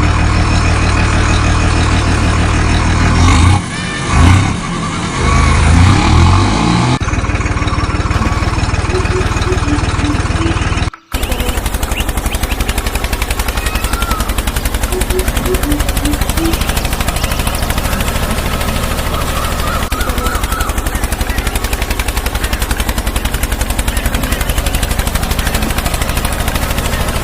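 An engine-like motor running steadily, with a few swells a few seconds in. It cuts off suddenly about 11 seconds in and is replaced by a fast, even rattle of knocks.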